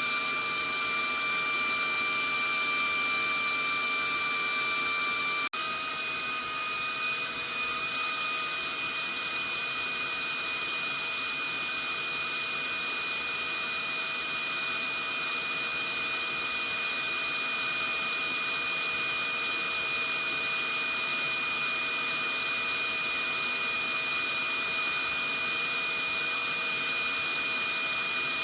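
Vacuum cleaner motor running steadily: a rushing airflow with a high motor whine over it. About five seconds in, the sound drops out for an instant. After that the whine sits a little higher and a little louder.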